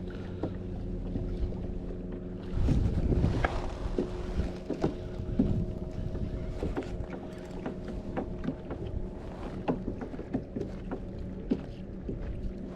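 Water and hull sounds of a kayak being towed by a hooked fish, with scattered light clicks and knocks over a faint steady hum. A louder low rumble of water or wind comes about two and a half seconds in and lasts about a second and a half.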